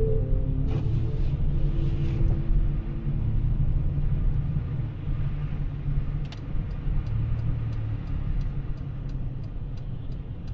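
Steady low road and engine rumble inside a car driving on the highway. About halfway through, a quick, regular ticking of about three clicks a second begins.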